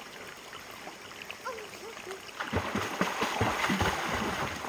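Water splashing and trickling, with the splashing growing heavier and more irregular about halfway through.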